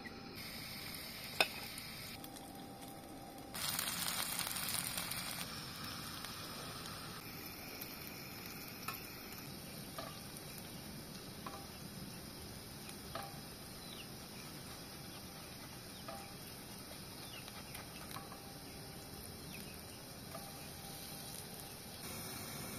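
Potato kuku patties (grated potato and egg) sizzling steadily in hot oil in a frying pan on a portable gas burner, with a louder stretch of sizzling about four seconds in. A metal spatula clicks lightly against the pan every second or two as the patties are pressed and turned.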